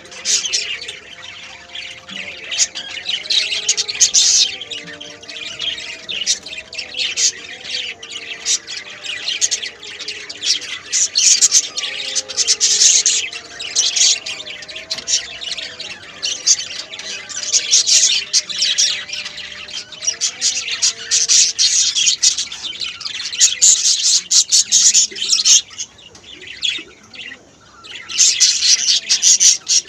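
Many lovebirds chattering and squawking at once, a dense stream of shrill, rapid calls that eases off briefly near the end.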